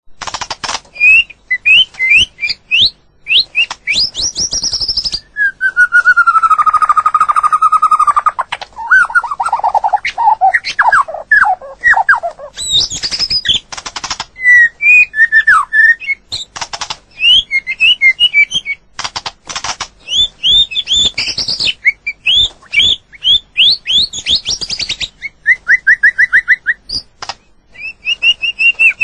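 White-rumped shama singing: a long, varied run of clear whistled phrases, rising and falling glides and quick trills, mixed with short noisy notes. A long, loud, lower whistle comes about six seconds in.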